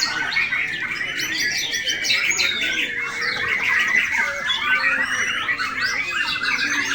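Many white-rumped shamas (murai batu) singing at once, a dense tangle of overlapping whistles and chirps with no pause.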